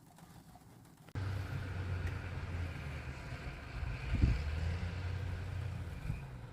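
A steady low vehicle rumble with a hum, cutting in abruptly about a second in, with a brief low thump about four seconds in.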